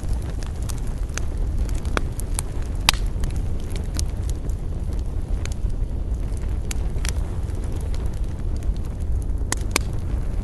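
Wood campfire crackling, with irregular sharp pops and snaps a few times a second over a steady low rumble.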